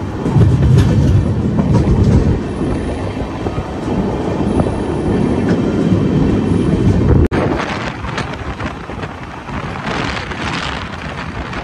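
Passenger train running at speed, heard from beside the moving coach: a steady rumble of wheels on the rails with wind rushing past the microphone. About seven seconds in, the sound breaks off for an instant and comes back lighter, with less rumble and more wind hiss.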